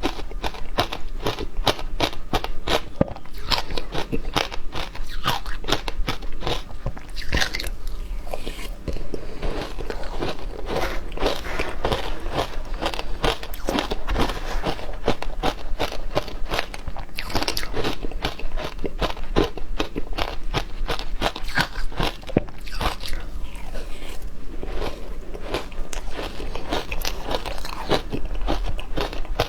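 Frozen matcha ice being bitten and chewed close to the microphone: a dense run of loud, sharp crunches, several a second.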